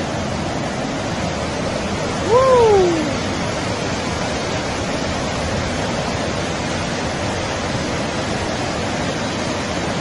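Heavy rushing water, a steady torrent of noise. About two seconds in, a short pitched call rises and then falls in pitch and stands out over the water.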